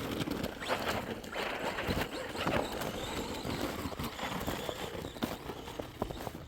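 Irregular crunching and scuffing in snow, a busy run of short crunches without a steady motor tone.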